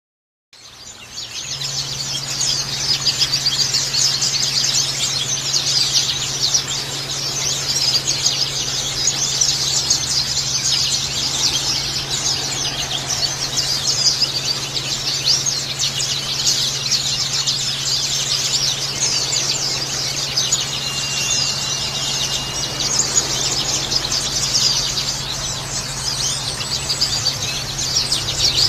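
Trickling, splashing water with dense, constant high chirping and twittering of birds over it, and a steady low hum underneath. It is a water-sound track used to calm a caged bird and coax it into singing.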